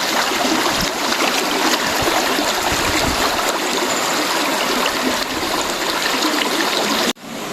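River water rushing steadily, a dense even hiss of flowing water that cuts off suddenly near the end.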